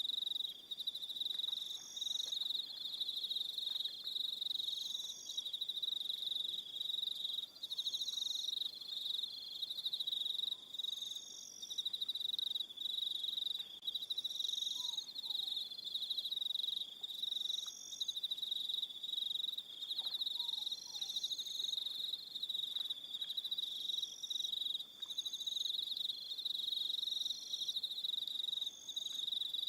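Evening chorus of crickets trilling continuously at a high pitch, with a second, higher chirp pulsing on and off every couple of seconds. A few faint short calls come in lower down around the middle.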